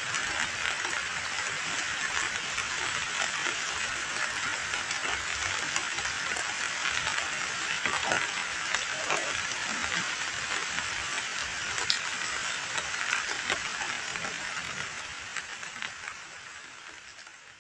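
Heavy rain pelting a muddy puddle of standing water: a dense, even patter of countless small splashes. It fades out near the end.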